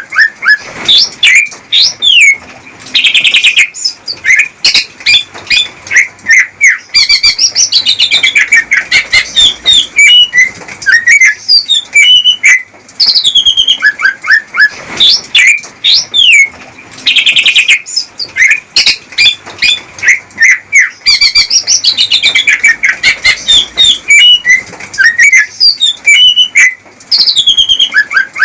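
Male greater green leafbird (cucak ijo) singing its courtship song to a female: a loud, fast run of whistled sweeps and rapid trills, with the same phrases coming back again and again.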